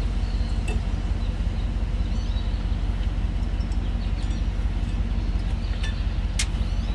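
A vehicle engine idling with a steady low hum, with a few sharp metallic clicks, the loudest near the end.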